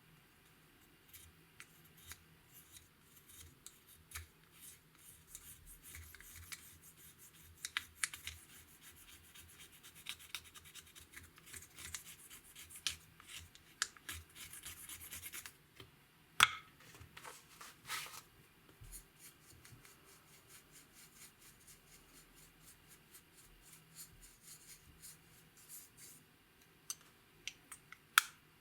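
Clear slime and makeup being worked by hand and tool: many small clicks and scratchy rubbing, with one sharper snap a little past halfway and a cluster of clicks near the end.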